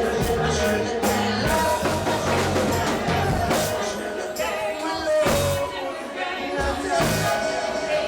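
Live reggae band playing, with drums and bass under a singing voice.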